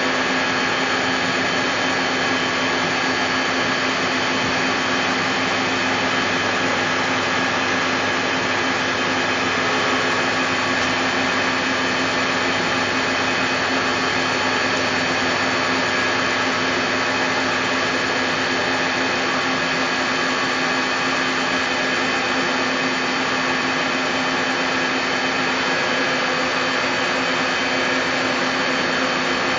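Puma 350 CNC lathe running steadily: an even machine hiss with several steady humming and whining tones held throughout, no change in speed.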